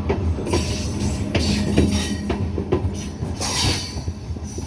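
MEMU electric multiple-unit train running on the track, its wheels clicking repeatedly over rail joints above a steady low hum, with a few brief higher-pitched rushes of noise.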